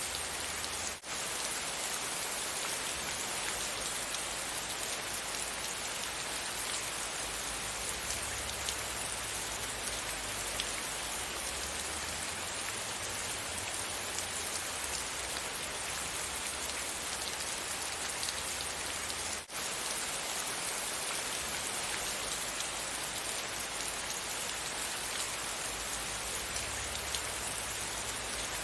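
Steady rain falling, an even dense hiss with fine patter of drops. It drops out for an instant twice, about a second in and again about two-thirds through.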